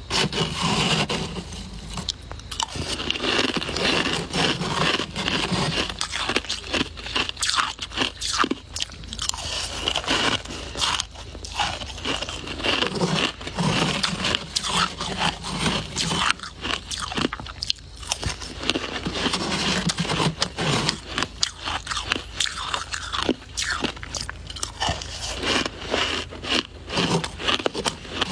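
Soft white shaved ice being bitten and chewed: a continuous run of dense, irregular crunches.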